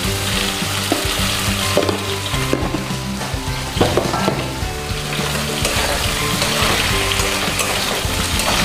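Chicken and potato pieces sizzling steadily in hot oil in an aluminium kadai, with a few sharp metal clinks against the pan and stirring near the end.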